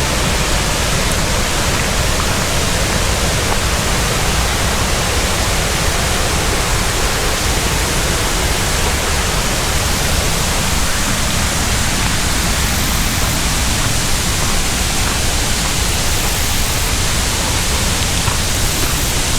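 Waterfall: the steady, loud rush of water pouring over the falls of a creek.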